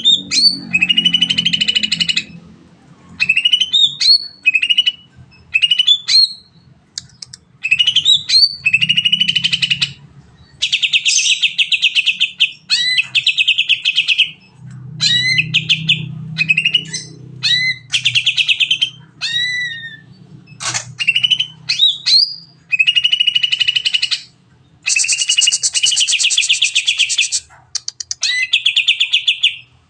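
Green leafbird (cucak ijo) singing its long rapid-fire song: phrases of upward-sweeping notes and long, fast trills, repeated with short pauses.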